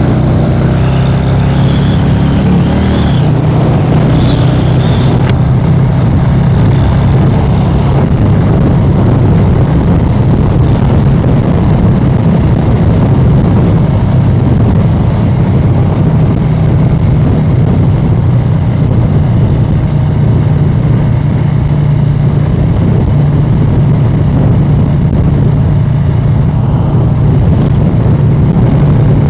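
Harley-Davidson Street Bob 114's Milwaukee-Eight 114 V-twin running through an aftermarket SP Concept exhaust while riding. Its note climbs over the first few seconds, then holds a steady, loud cruise.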